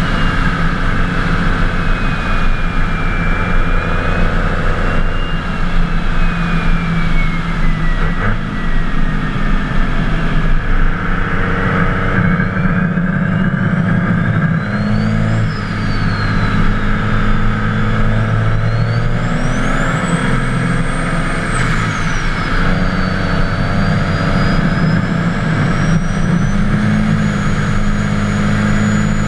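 Twin-turbo 24-valve Cummins six-cylinder diesel running under way, its low engine note stepping with the throttle. Over it the turbochargers' high whistle slides down, then climbs and falls several times, reaching its highest pitch about two thirds through before slowly rising again near the end.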